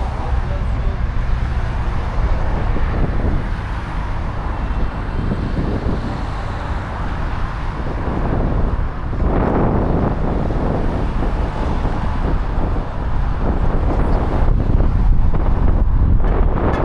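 City road traffic running steadily past, with wind buffeting the microphone; a louder swell about nine seconds in, like a vehicle passing close.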